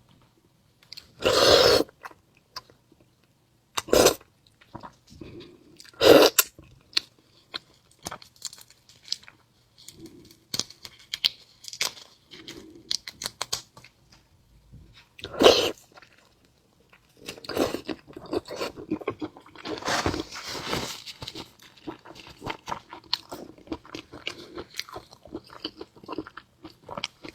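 Close-miked eating of marinated seafood: a few loud bites in the first half, then steady crunchy chewing through the second half.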